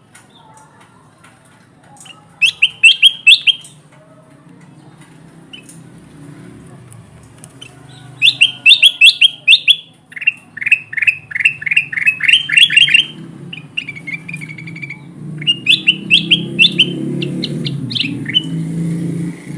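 Kutilang emas bulbul singing vigorously in several bursts of rapid, sharp chattering notes, a couple of seconds apart. A low rumble grows louder underneath toward the end.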